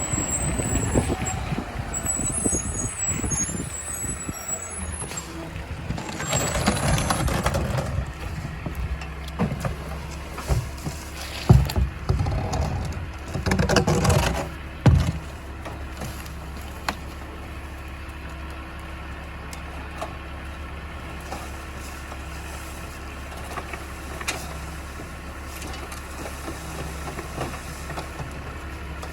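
Garbage truck engine running, with clunks and knocks and two air-brake hisses in the first half, then settling into a steady idle with a constant low hum.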